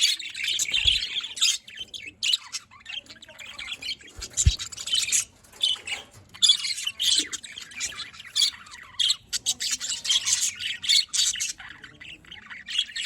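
Several budgerigars chattering and chirping together in rapid, overlapping warbles and squawks, with short lulls.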